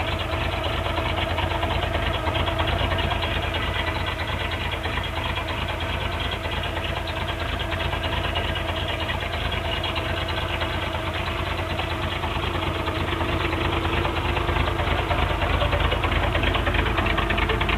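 1984 Toyota pickup's 22R four-cylinder engine idling, with a rumble from its aftermarket exhaust and Cherry Bomb muffler. The running is steady and gets a little louder near the end.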